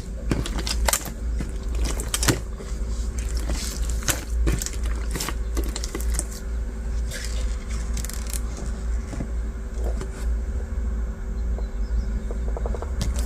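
Hands squeezing and pressing a translucent slime packed with small plastic beads, the beads giving a constant crackle of small clicks and crunches, over a steady low hum.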